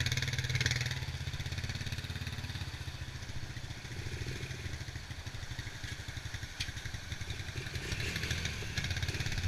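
Honda TRX90 ATV's small single-cylinder four-stroke engine running under way, a steady fast-pulsing note that eases a little in the middle and picks up again near the end.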